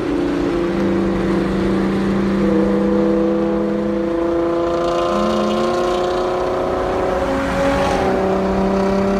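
Car engine running at steady revs, its note holding and then stepping up a few times.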